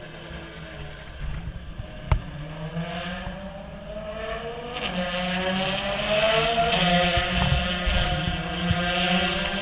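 Ferrari race car engine growing louder and rising in pitch over several seconds, then holding a steady high note. There is a single sharp knock about two seconds in.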